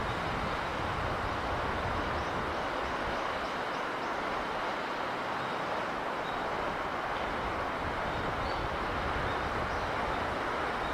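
Steady rushing sound of sea breeze and sea, an even wash of noise with no breaks. A faint run of high chirps sounds about two to four seconds in.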